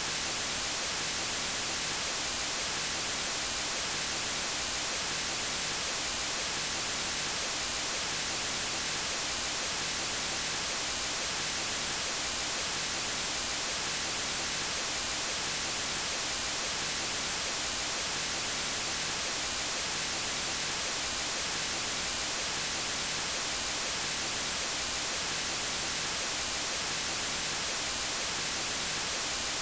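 Steady, hissing white noise, brightest in the highest pitches and unchanging.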